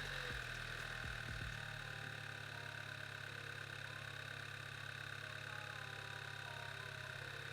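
Volkswagen Golf GTI Mk6's turbocharged four-cylinder engine idling steadily just after starting, settling about a second and a half in. It runs now that a rat-chewed wire in the relay circuit that powers up the engine control unit is reconnected.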